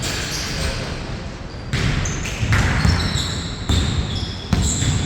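A basketball bouncing on a court during a game, with a run of thumps through the second half along with short high squeaks.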